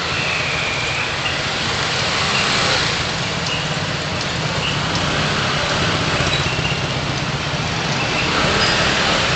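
Car engine running steadily with road and traffic noise, as picked up by a dashcam. A few faint short high chirps sound here and there.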